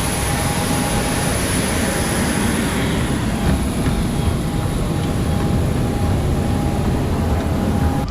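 Steady loud rushing noise of a jet airliner, with a faint steady whine running through it.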